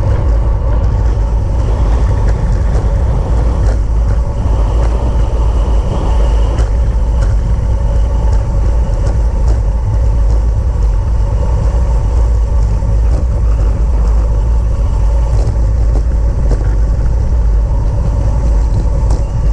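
Steady rush of wind and road noise from a road bike ridden at racing speed, with a heavy low rumble of wind buffeting the microphone and a few faint clicks from the bike.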